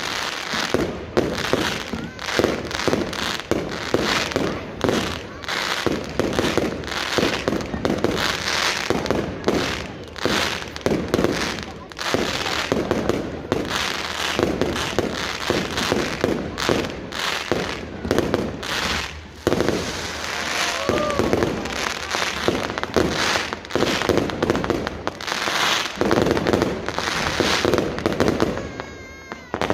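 Fireworks display going off: a rapid, nearly continuous run of bangs and crackles, with voices of the crowd beneath.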